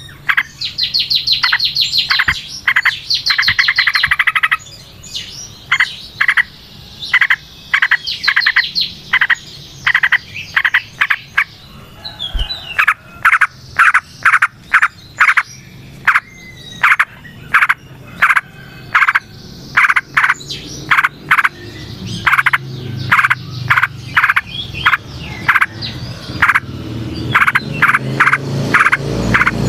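Yellow-vented bulbul (trucukan) singing fast rattling phrases over croaking frogs. From about twelve seconds in, short sharp notes repeat nearly twice a second.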